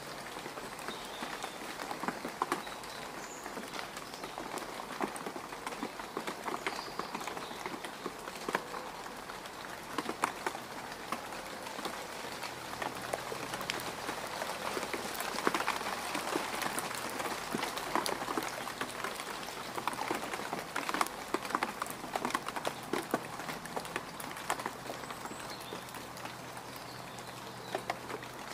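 Rain falling on mud: a steady patter with many distinct single drops landing close by, a little heavier around the middle.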